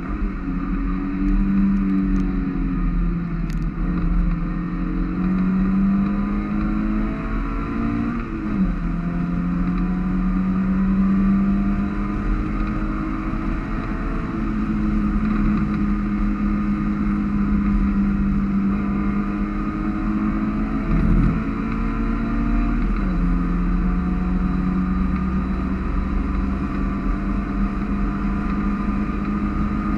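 Mazda MX5 race car's four-cylinder engine heard from inside the open cockpit while lapping. The engine note climbs steadily and drops sharply about a third of the way in and again about three-quarters of the way in, as with gear changes, over a steady hiss of wind and road noise.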